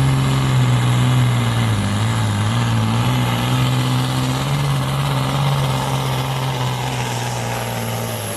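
Competition pulling truck's diesel engine running at steady high revs, dipping in pitch briefly about two seconds in and dropping away near the end.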